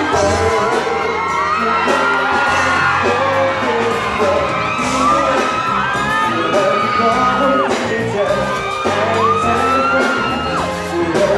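A live pop band playing while a male singer holds long, gliding sung notes, with fans whooping and screaming over it.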